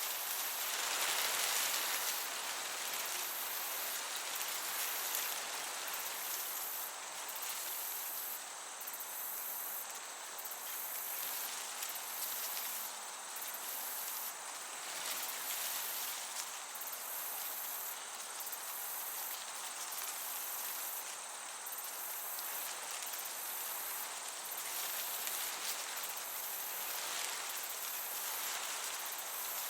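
Crickets chirping in a steady high trill with short breaks, over a gentle breeze. The breeze swells in the first couple of seconds and again near the end.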